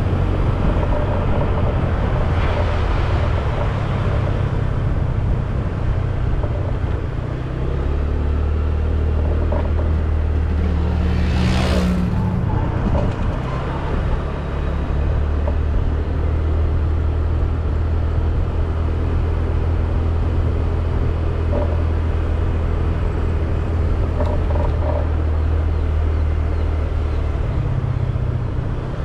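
Motorcycle engine running steadily under way, with wind and road noise, its pitch changing about seven seconds in and again near the end. About twelve seconds in there is a brief sharp rushing sound.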